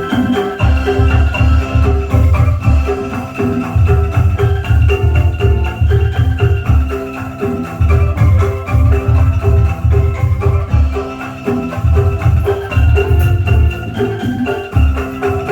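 Banyumas angklung ensemble playing through a loud sound system: repeating bamboo mallet-instrument notes over a heavy, steady bass beat.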